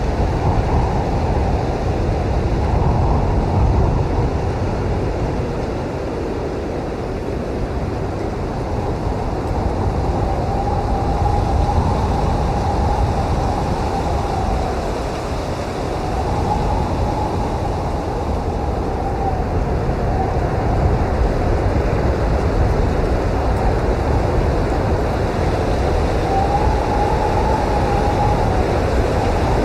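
Blizzard wind blowing hard, with a deep rumble and a wavering whistling howl that swells and fades several times.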